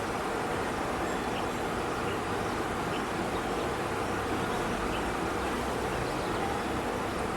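Steady outdoor background noise, like distant traffic, with a few faint, short high chirps scattered through it.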